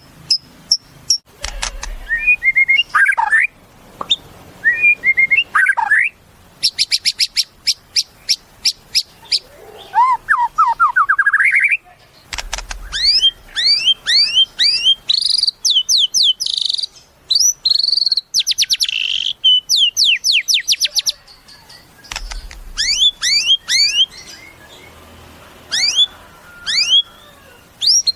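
White-rumped shama (murai batu) singing a varied song. Phrases of fast, sharp clicking notes alternate with quick up-slurred whistles, including a rising run of notes about ten seconds in, with short pauses between phrases.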